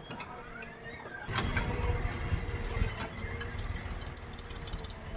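Heavy diesel engine of an earth-moving machine running. About a second in it gets louder and rougher, with a few knocks and rattles, then settles back.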